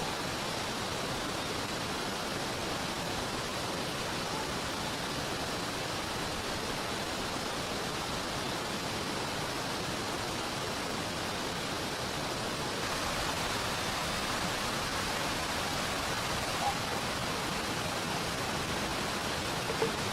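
Steady rush of falling rain mixed with flowing river water, with a couple of faint clicks near the end.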